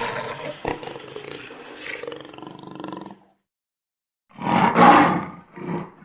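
A big cat's rough, roar-like growling: one drawn-out growl that fades away over about three seconds, then after a short pause two short, loud, harsh growls near the end.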